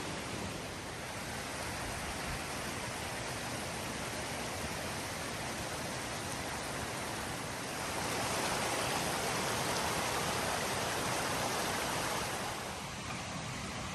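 Creek water rushing steadily, swelling louder for a few seconds past the middle.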